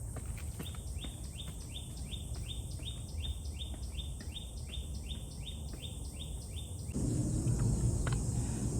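A small wild creature calling a rapid, even series of short rising chirps, about three a second, over a steady high-pitched drone. The chirps stop abruptly about seven seconds in, giving way to a louder low rumble.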